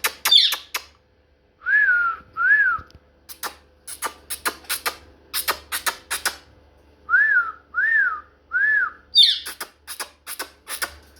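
Whistling with sharp clicking, around a pet parrot. There are short whistled notes that rise and fall, two together and later three in a row, and two quick downward-sweeping whistles, one near the start and one near the end. A rapid series of sharp clicks runs between the notes.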